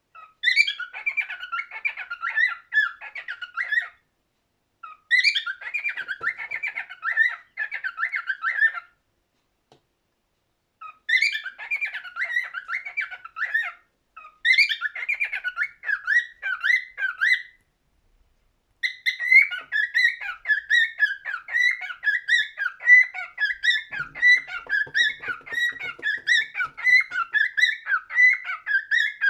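Cockatiel singing: runs of quick, warbling chirps and whistles in phrases a few seconds long with short pauses between them, then a longer unbroken stretch of song over the last third.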